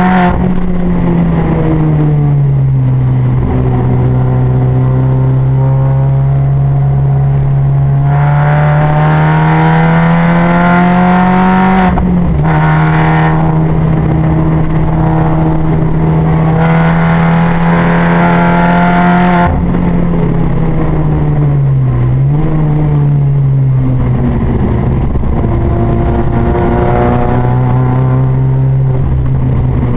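Car engine running hard on a race track, heard from on board: a steady drone whose pitch climbs slowly, then drops sharply about twelve seconds in and again around twenty seconds in, as at gear changes. There is a short dip a couple of seconds later.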